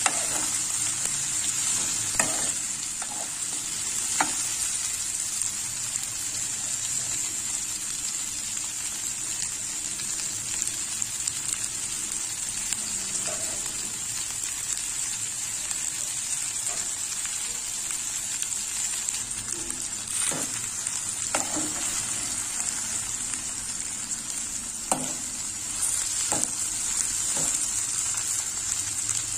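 Chopped okra frying in a metal pan with a steady sizzling hiss, and a few sharp clinks of a metal spoon against the pan as it is stirred.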